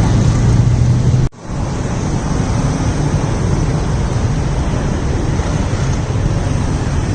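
Steady, loud low background rumble outdoors that cuts out abruptly for a moment about a second in, then carries on.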